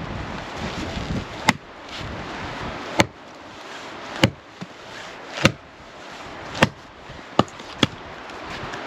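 Axe chopping wood: about seven sharp blows, roughly one a second, over a steady rushing noise.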